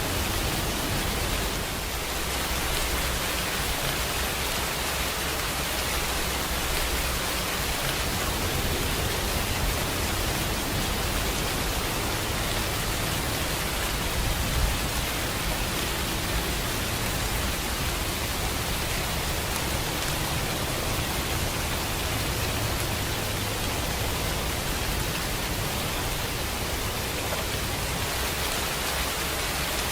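Steady rainfall, a dense, even hiss of rain with no distinct drops or thunder.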